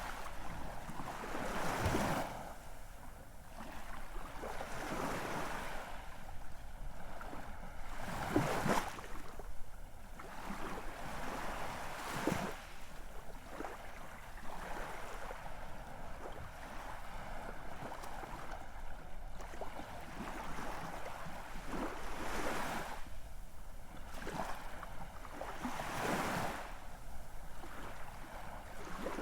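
Ocean waves washing and breaking, a steady rush that swells into a sharper splash every few seconds.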